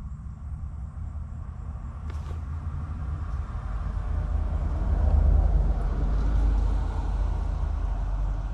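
Low vehicle engine rumble that swells louder through the middle and eases off near the end, with a single sharp click about two seconds in.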